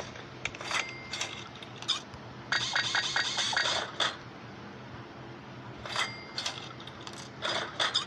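Sharp metallic clicks with a brief ringing tone, then a burst of rapid, evenly spaced clicking lasting about a second and a half; the same sequence starts again about six seconds in.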